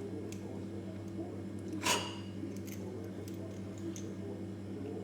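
Steady low electrical hum with a few light clicks and one sharp metallic clink about two seconds in.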